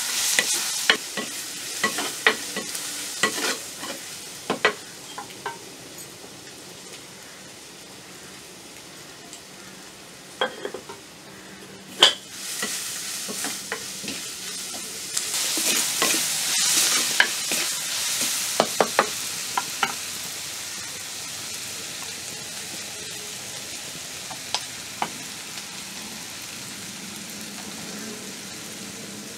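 Food sizzling as it fries in a pan while it is stirred, with scattered sharp clicks of a utensil against the pan. The sizzle swells about halfway through, then settles to a steady hiss.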